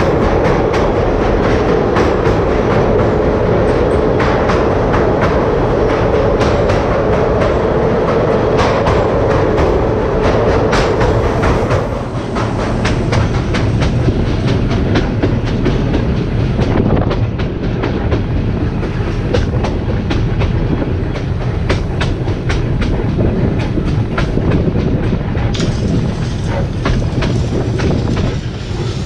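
Narrow-gauge electric locomotive running, its wheels clicking over rail joints. A loud, echoing din inside a tunnel drops away about twelve seconds in as the train comes out into the open.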